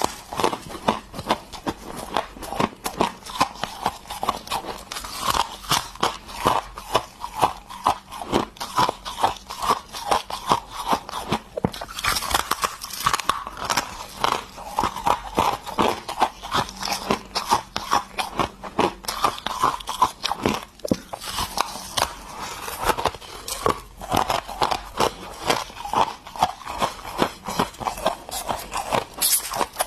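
Close-up crunching and chewing of solid ice from an ice stick: rapid crackling crunches, several a second, as the ice is bitten and chewed.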